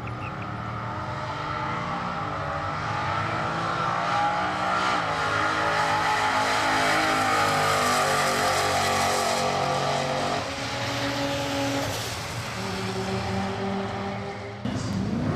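Holden Commodore drag car at full throttle down a drag strip, its engine note climbing steadily with gear changes about five and ten seconds in.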